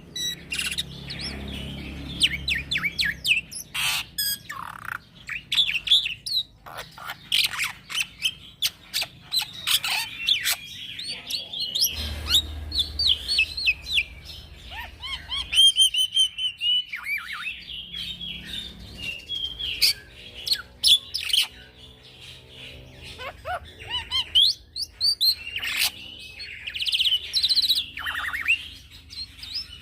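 Young black-winged myna singing a long, non-stop varied song: whistles rising and falling, mixed with sharp clicks and harsh chattering notes.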